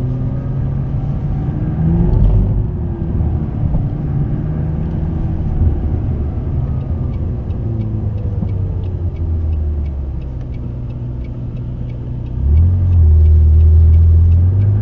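McLaren 650S twin-turbo V8 running at low revs, with a short rise in revs about two seconds in and a louder, steady pull at higher revs near the end.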